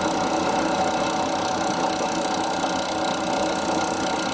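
Milling machine running steadily, a continuous motor hum with a high whine.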